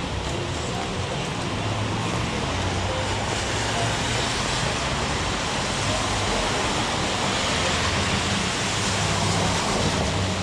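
Heavy rain falling steadily, heard as an even hiss, over the low engine hum of street traffic. The hum swells about two seconds in and again near the end.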